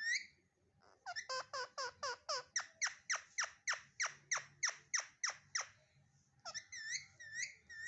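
A parrot calling: a fast run of about fifteen short whistled notes, each falling in pitch, about three a second. After a brief pause near the end come a few quick dipping chirps.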